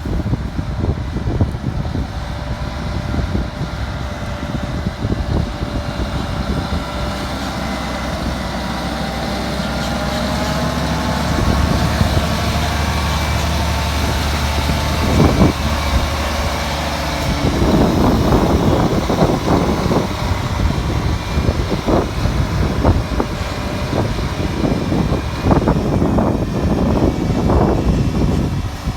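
Scania tractor unit's diesel engine running, its pitch climbing through the middle with a deep rumble, then louder and rougher with irregular knocks in the last third.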